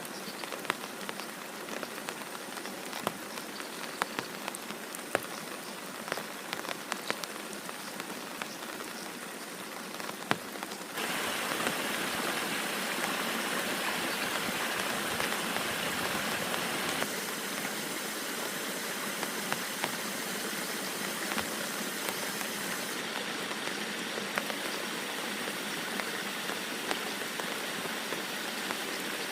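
Heavy rain falling. For the first stretch, many individual drops tick sharply on a surface close by. About eleven seconds in, the sound abruptly becomes a louder, denser, even hiss of downpour, and it shifts in level again twice later.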